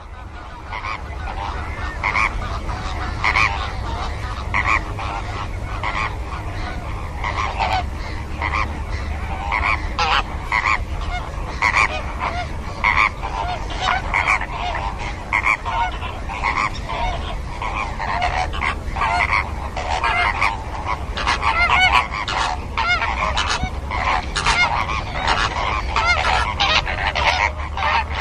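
Flock of greater flamingos calling, a dense, continuous chorus of overlapping goose-like honks, over a steady low rumble.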